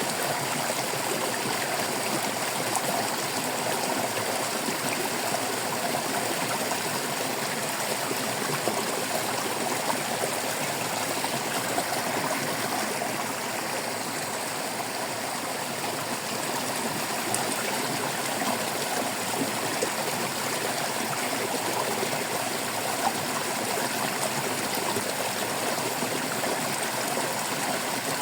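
Shallow stream babbling and gurgling steadily over rocks.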